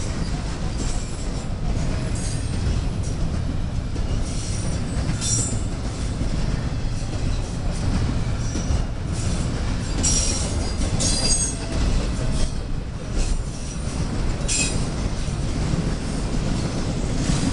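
Railroad cars rolling past with a steady low rumble, with brief high-pitched wheel squeals every few seconds.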